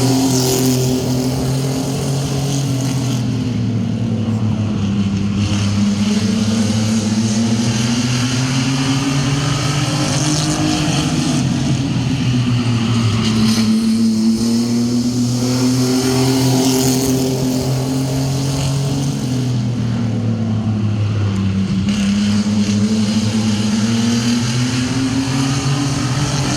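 A pack of sport-truck (mini truck) race engines running laps on an oval, their pitch rising and falling over and over as they accelerate and back off. The pack passes close several times, loudest about ten seconds in, around seventeen seconds and near the end.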